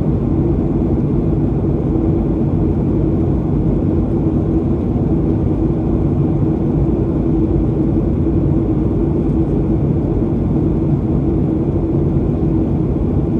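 Steady cabin noise inside a Boeing 737-800 in flight: the low rumble of its CFM56 engines and the airflow, with a constant hum running through it.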